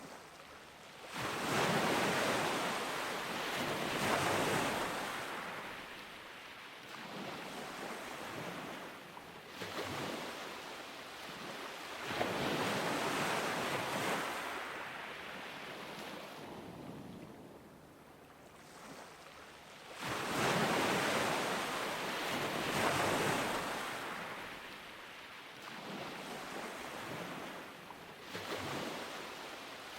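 Ocean waves breaking on a beach, the surf swelling and washing out again in slow surges every few seconds; the biggest break about a second in, around twelve seconds in and about twenty seconds in.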